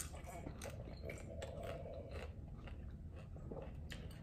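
Faint biting and chewing of a crunchy hard-shell taco close to the microphone, a scatter of small crunches.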